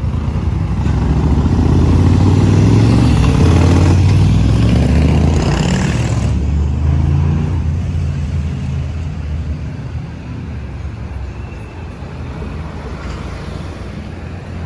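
A motor vehicle's engine running close by, a low hum that grows louder over the first couple of seconds and then slowly fades away.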